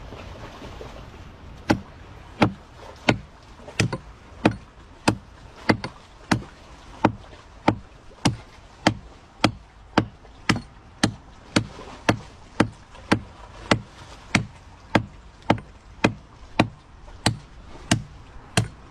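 A blade chopping into a tree root over and over: sharp, evenly spaced blows, about three every two seconds, starting a couple of seconds in.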